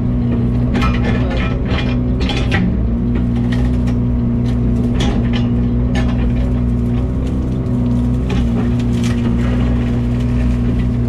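A heavy machine's diesel engine running steadily under load, with irregular sharp cracks and snaps of brush breaking over it.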